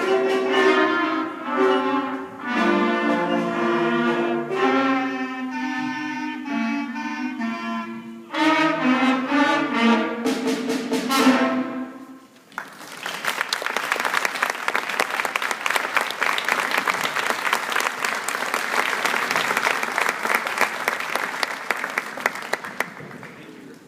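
Fifth-grade school concert band of wind instruments playing the last bars of a piece and ending on a held chord about twelve seconds in. Audience applause follows, fading out near the end.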